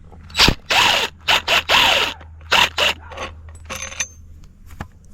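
Metal scraping and grinding as a cast aluminum part is worked loose from a commercial floor scrubber with hand tools: about eight short scraping bursts in the first four seconds, over a steady low hum.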